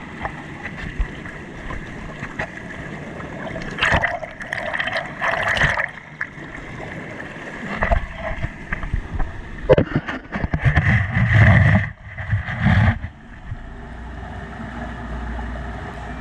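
Running water as a steady rush, broken by loud irregular bursts of rustling and knocks about four seconds in and again from about eight to thirteen seconds.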